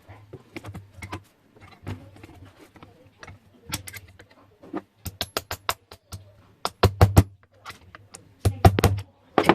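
Scattered clicks and knocks of small objects being handled, with quick runs of clicks about halfway through and again near the end, over a faint low hum.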